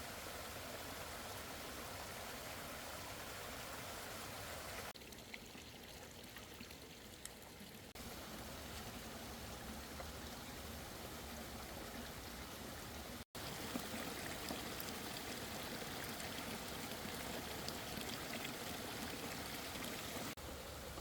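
Steady rushing water. It shifts abruptly a few times and cuts out for an instant about 13 seconds in.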